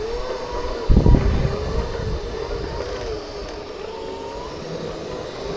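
Segway electric drive whining steadily as it rides off, the pitch wavering up and down with speed. A loud buffet of low rumble about a second in, like wind on the microphone.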